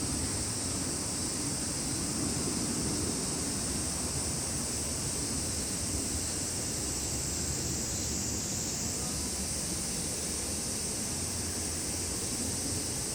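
Summer insect chorus: a steady high-pitched buzz of insects, which shifts slightly higher about nine seconds in, over a low rumble of outdoor background noise.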